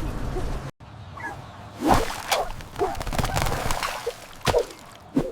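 Cartoon sound effects: a brief cut to silence under a second in, then whooshes and several sharp hits, the loudest about two and four and a half seconds in, with short squeaky pitched sounds between them.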